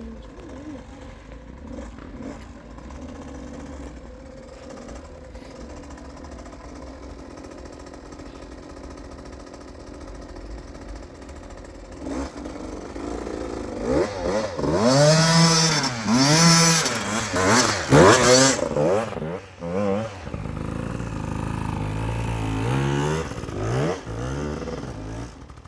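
Enduro dirt bike engines: a low steady engine sound at first, then about twelve seconds in a bike comes close and revs hard, its pitch climbing and dropping over and over as the rider works the throttle up the hillclimb. It is loudest in the middle-to-late part, then runs on at a steadier, lower level.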